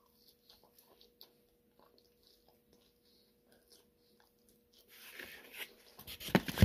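A person chewing a mouthful of pizza: soft, sparse wet clicks at first, growing louder about five seconds in, with a few sharp mouth smacks near the end.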